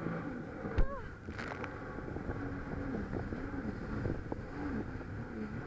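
Jet ski engine running at part throttle, its pitch rising and falling over and over, with wind on the microphone. A sharp thump about a second in.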